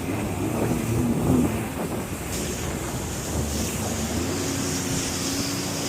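Jet ski engine running on the water, with wind on the microphone and a hiss of water spray. About halfway through the engine settles into a steady note.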